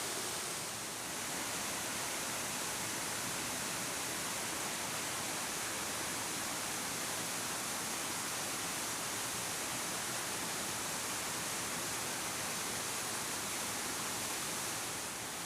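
Noka Falls, a 30 m waterfall with a heavy flow, pouring down: a steady, even rush of falling water, dipping slightly for a moment about a second in and again near the end.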